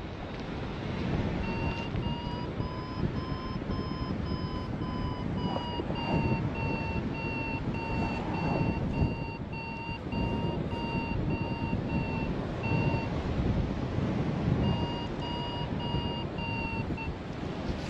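Paragliding variometer sounding its rapid climb beeps, the pitch rising a little then settling: the sign that the glider is climbing in lift. The beeping stops briefly, then resumes for a couple of seconds, over steady wind noise on the microphone.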